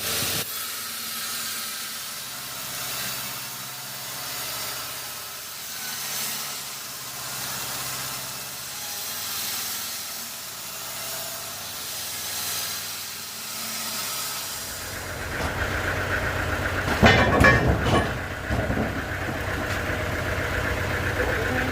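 Sawmill machinery: a steady hiss that swells and fades every few seconds, then about 15 seconds in a motor starts running louder with a steady whine, and a few loud knocks come near 17 to 18 seconds.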